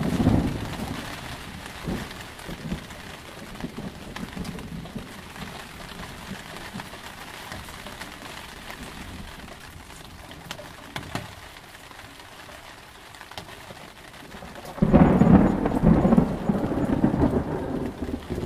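Steady rain falling, with a loud thunderclap about fifteen seconds in that rumbles on for about three seconds. The tail of an earlier thunder roll fades away in the first second.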